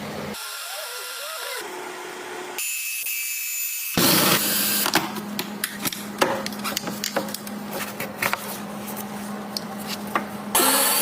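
Hand-tool work on an engine: irregular metallic clicks and clatter over a steady low hum, after a few short, abruptly cut sound segments.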